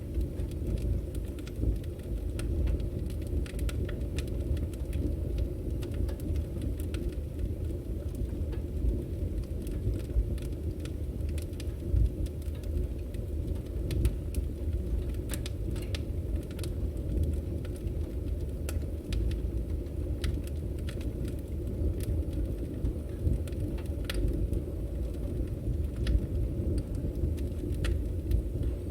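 Firewood burning in an open fire: a steady low rumble of flames with frequent scattered sharp crackles and pops from the wood.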